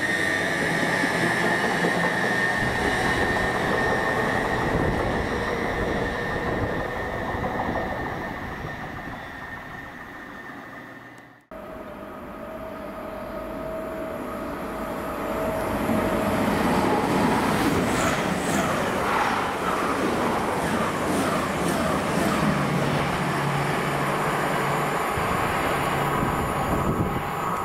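A passing train running loudly with a whining tone, fading away over several seconds and cut off abruptly. Then a second train that builds up and passes loudly for the rest of the time.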